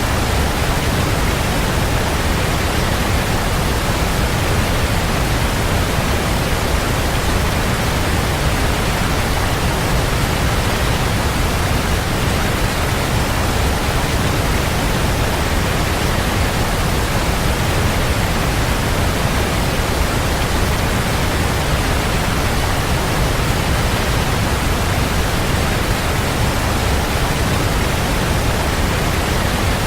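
Waterfall: water pouring and splashing in a steady, unbroken rush, heaviest in the low end.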